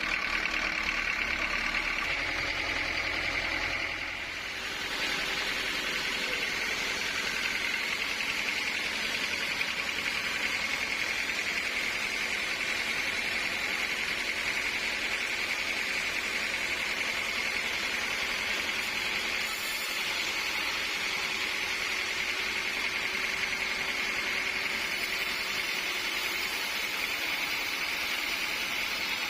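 Sawmill machinery running steadily, with a constant high-pitched whine over a noisy rush. An engine-like hum with a few steady tones sounds in the first few seconds, then fades, and the loudness dips briefly about four seconds in.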